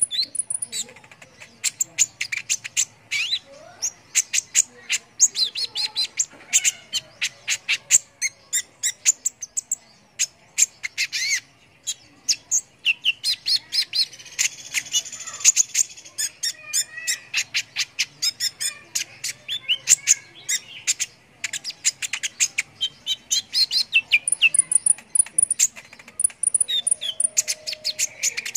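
Kolibri ninja (a sunbird) singing a fast, unbroken run of sharp chirps and ticks, with short pitch sweeps and brief very high trills now and then.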